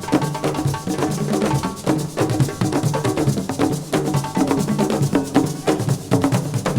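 Assiko band playing an instrumental passage: fast, dense percussion with sharp clicking strokes over a steady drum beat and sustained pitched backing.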